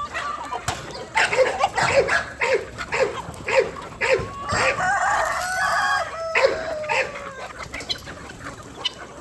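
Chickens clucking in a steady run of short calls, about two a second. About four and a half seconds in, a rooster crows one long, wavering call, and more clucking follows.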